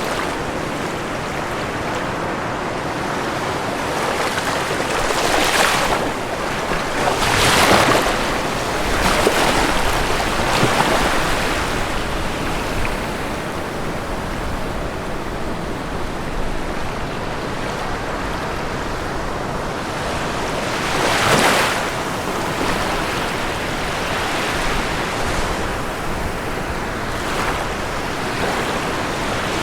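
Ocean waves breaking on a shore over a steady wash of surf, with the loudest breakers in a cluster between about five and eleven seconds in and again about two-thirds of the way through.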